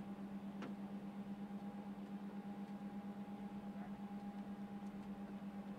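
Steady low hum with a faint, even pulsing about six times a second and one short click about half a second in.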